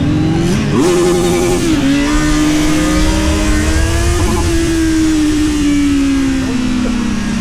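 Kawasaki Z900 inline-four with a full exhaust, revving hard under acceleration. The pitch jumps sharply about a second in and holds high with a brief flutter, drops at an upshift, climbs again, then falls slowly as the throttle is eased.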